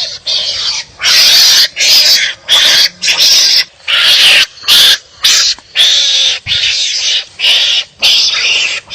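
Wild animal barking calls: about a dozen harsh, loud barks in quick succession, each well under a second long, with short gaps between them.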